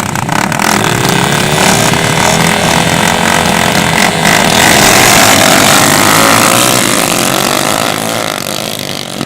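Motocross dirt bike engine revving hard close by. Its pitch climbs about a second in and then holds. It is loudest around the middle and fades near the end.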